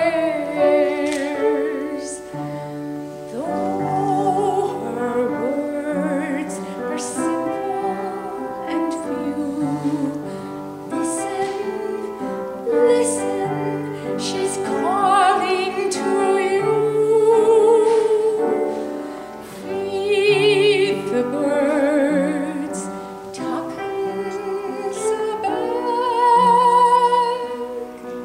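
A woman singing a slow musical-theatre ballad in a classical style with vibrato, accompanied by piano. Near the end she holds one long high note before the phrase closes.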